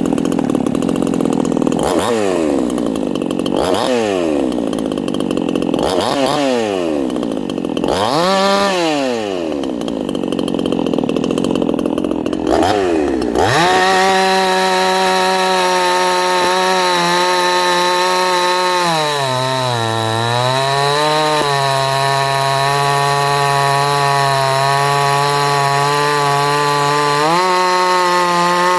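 Red Nut 58cc two-stroke chainsaw starting and being blipped up and down about five times, then held at high revs, its pitch sagging briefly around two-thirds through before rising again. Its low-speed mixture has just been richened a little so it revs up cleanly.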